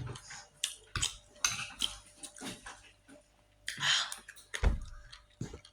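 Cutlery clinking and scraping against a dish of beans and gari while eating: scattered short clicks, a longer scrape about four seconds in and a dull thump just after.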